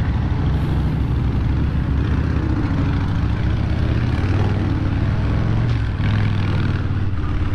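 Harley-Davidson motorcycle's V-twin engine running at low revs, a steady low engine note whose pitch shifts slightly.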